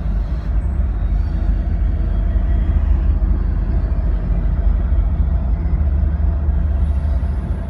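Union Pacific train rolling past, a steady low rumble with no horn.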